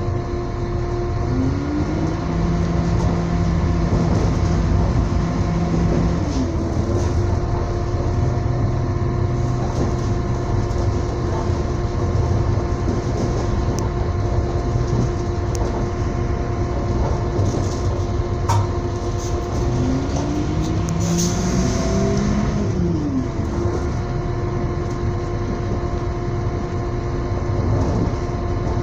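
Moving passenger train heard from inside the carriage: a steady rumble of wheels on rail under a constant hum. Twice, a whine climbs in pitch and then drops away, once a second or so in and again about twenty seconds in.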